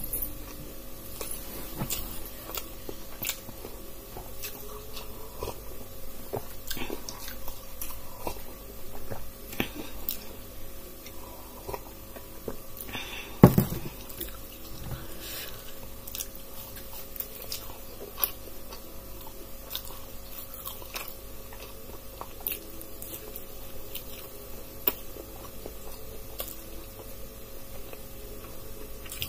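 Close-miked biting and chewing of deep-fried pakoras, with many small clicks and crunches. A sharp knock about halfway through comes as the glass of tea is handled. A faint steady hum runs underneath.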